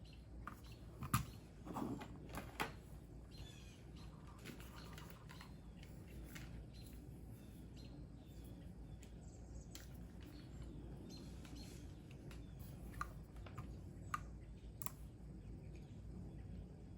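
Computer keyboard keys clicking in scattered, irregular taps, a few louder ones a second or two in, with faint birds chirping in the background.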